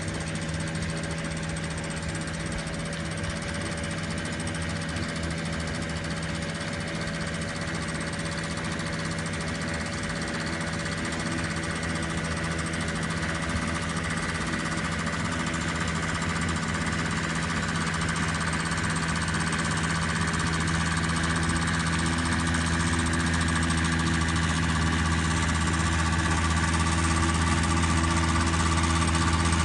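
Small engine of a student-built Shell Eco-marathon car running at a steady speed, growing louder over the second half as it gets closer.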